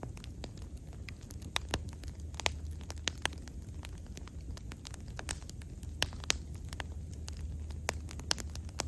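Wood fire burning, with frequent sharp, irregular crackles and pops over a steady low rumble of the flames.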